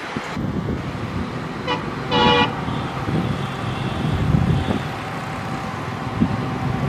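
Two short horn toots about two seconds in, the second louder and a little longer, over the steady low rumble of a passing diesel freight train.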